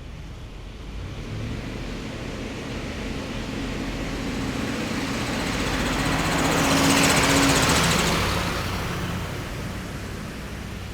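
A heavy military vehicle driving past: its engine grows louder, peaks about seven seconds in, then fades away.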